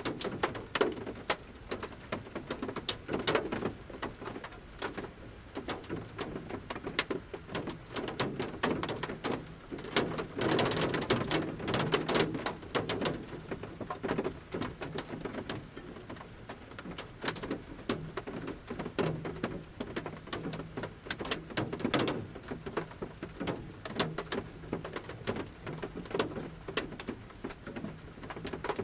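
Large raindrops falling from the forest canopy onto the roof of a camper van, heard from inside: irregular single taps and knocks, with a denser flurry of drops about ten to thirteen seconds in.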